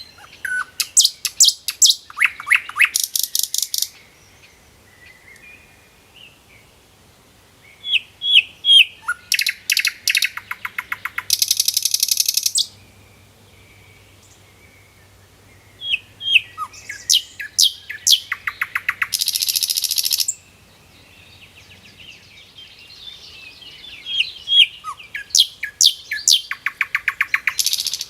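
A songbird singing the same song four times, about every eight seconds: a run of sharp notes that speeds into a fast trill and ends in a dense, buzzy trill. Fainter chirps from other birds fill the gaps.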